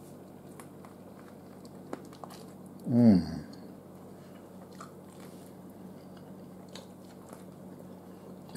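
A man biting into and chewing a barbecue-sauced chicken wing, with faint scattered chewing clicks. About three seconds in there is a short hum from him that falls in pitch.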